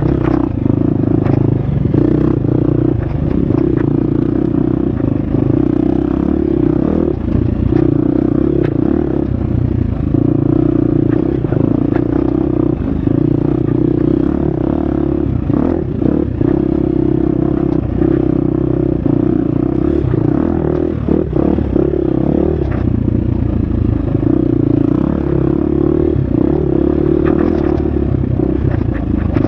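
Husqvarna FX 350 four-stroke single-cylinder dirt bike engine running hard on the trail, its note rising and falling as the throttle opens and closes, with the clatter and knocks of the bike over rough ground.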